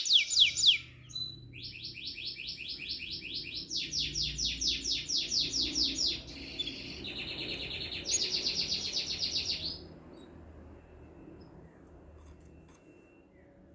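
A songbird singing a long song made of rapid trills. Each trill is a fast run of repeated identical notes, roughly ten a second, and the note type switches every second or two. The song stops about ten seconds in.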